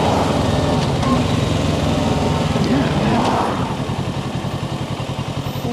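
Kawasaki Ninja 650's parallel-twin engine running as the motorcycle is ridden, with wind noise; about four seconds in the engine gets quieter and its note turns to a pulsing throb. The engine is in break-in and kept under 4,000 rpm.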